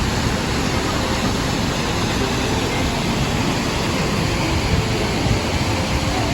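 Kesarval waterfall's water falling onto rock, a steady, loud rush of noise.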